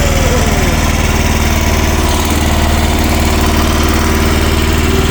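Small mini excavator engine running steadily at an even speed.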